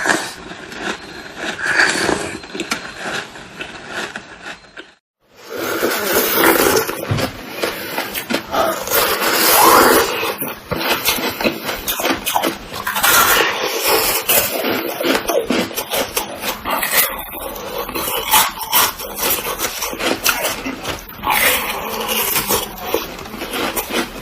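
Close-miked biting and chewing of frozen milk ice: dense, irregular crunching and crackling, broken by a short silence about five seconds in.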